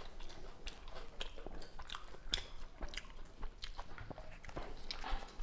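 Close-up mouth sounds of people eating chicken curry and rice by hand: chewing and lip smacking, heard as a stream of small irregular clicks, a few a second.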